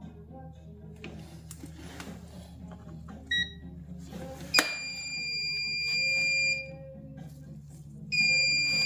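A click, then a steady high-pitched electronic warning tone for about two seconds, stopping and sounding again near the end, from the booster pack or test meter as the starter on the bench pulls a heavy current draw. A short beep comes a little before the first tone.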